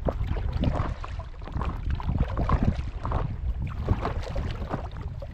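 Paddle strokes splashing and sloshing in the water beside a paddleboard, irregular and uneven, over a steady low rumble of wind on the microphone.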